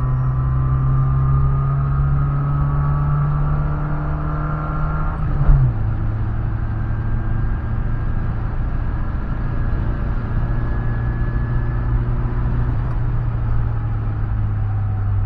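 Datsun 100A's small four-cylinder engine pulling under acceleration, heard from inside the cabin, its engine note rising slowly. About five and a half seconds in there is a short break with a thump and the note drops as the driver shifts up a gear, then the engine pulls on steadily at lower revs. The uploader says the engine's adjustment was not correct at the time.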